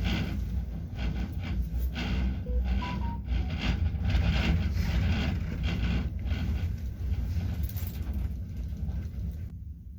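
A moving vehicle: a steady low rumble with a rushing noise on top that swells and fades, the upper hiss cutting off abruptly near the end.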